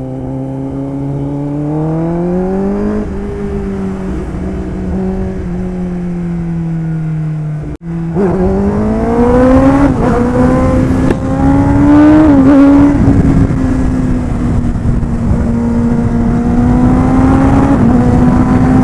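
Kawasaki ZX-10R's inline-four engine accelerating hard: its pitch rises and holds, cuts out sharply for a moment about eight seconds in, then climbs again and runs steadily at high revs, with wind rushing on the microphone.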